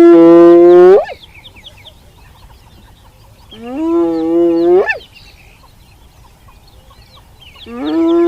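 An animal calls three times, each a drawn-out call about a second long on a steady pitch that sweeps up sharply at its end. Faint short bird-like chirps sound between the calls.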